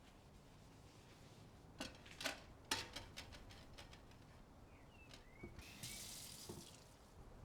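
Quiet kitchen handling sounds: a few light clicks and knocks about two to three seconds in, then a brief hiss about six seconds in. Faint bird chirps sound in the background.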